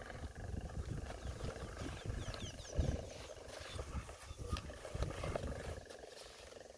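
Heavy diesel construction machinery rumbling unevenly, with surges and a few knocks.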